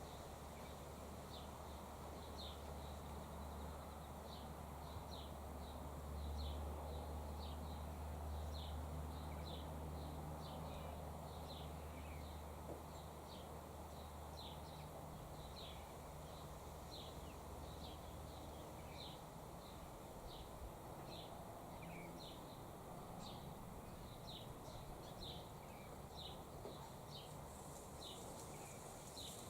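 A small bird giving short high chirps, repeated steadily about once or twice a second. A faint low hum runs underneath and fades out about two-thirds of the way through.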